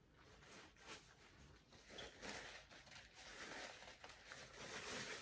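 Close-up crunching and chewing of a crisp deep-fried egg roll, a faint crackly noise that comes in waves, heaviest about two seconds in and again near the end.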